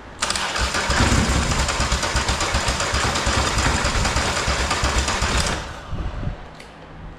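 Polaris Sportsman 850 quad's engine cranking over on the electric starter for about five seconds without catching, then stopping, with a couple of weaker turns as it winds down. It has sat for years and does not fire on its own fuel.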